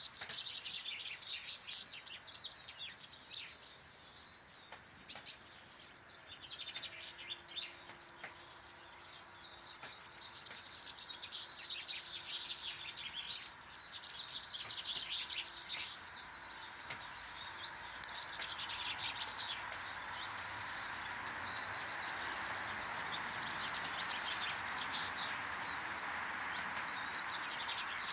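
Small garden birds chirping and twittering at a bird table, many short calls overlapping. In the second half a steady rushing noise comes up and grows louder beneath the calls.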